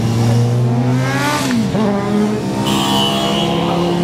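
Motorcycle engines running, one rising in pitch and then dropping away sharply about a second and a half in.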